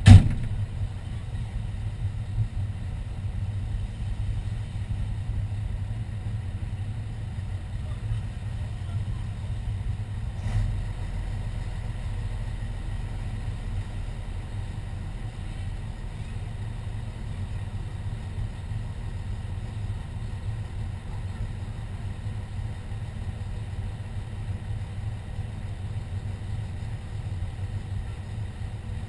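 Fire engine's engine idling with a steady low hum, with a sharp thump right at the start and a lighter knock about ten seconds in.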